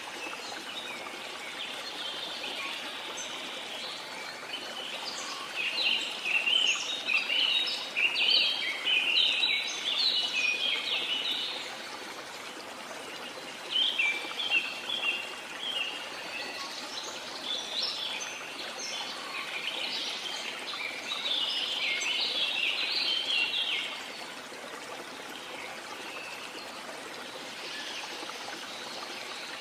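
Waterfall rushing steadily under birds chirping and singing. The birdsong is busiest and loudest from about five to twelve seconds in, and again from about fourteen to twenty-four seconds in.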